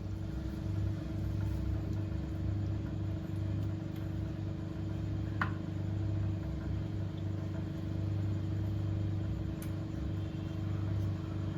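A steady low mechanical hum with a constant tone, with one short sharp click about five seconds in.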